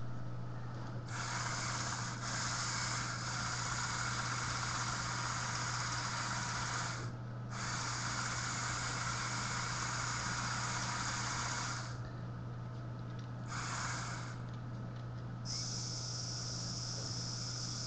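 Electric motors and plastic gears of a Lego Technic 8275 RC bulldozer running in four separate spells, a long one of about six seconds, then about four seconds, a brief one, and a final one of a few seconds with a higher, sharper pitch, as different functions are driven by remote control. A steady low electrical hum sits underneath.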